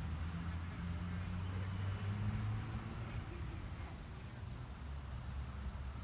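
A vehicle engine running, a steady low hum that eases off slightly after the first couple of seconds, with a few faint high chirps over it.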